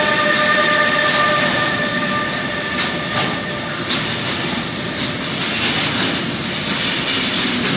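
Freight train of intermodal wagons loaded with tank containers and shipping containers rolling past at speed: a steady loud rumble of wheels on rail with irregular clicks over the rail joints. In the first second or so the high whine of the E.186 electric locomotive fades as it moves away.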